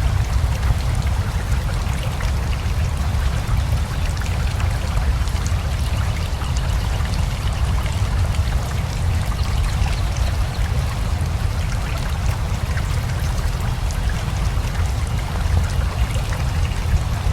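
Steady rain falling together with a rushing river: a continuous low rush of flowing water with many small raindrop ticks over it.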